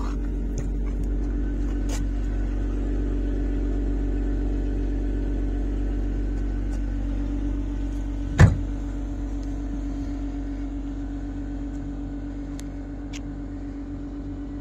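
Lotus Emira's engine idling steadily, with the car door shut once with a solid thud about eight seconds in; the idle grows fainter toward the end.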